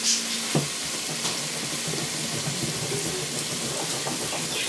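Food frying on a gas stove, a steady sizzle, with a few light clicks in the first second or so.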